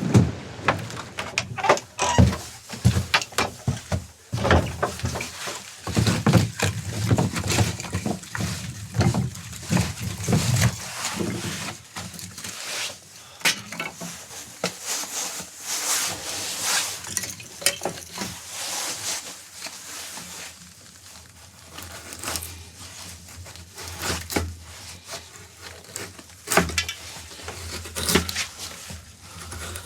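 Irregular knocks, clicks and clattering of objects being handled, with a rustling hiss for a few seconds in the middle.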